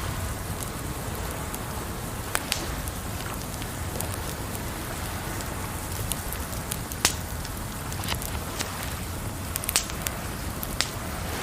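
Wood fire crackling, with sharp isolated pops every second or so, the loudest about seven seconds in, over a steady rushing water sound.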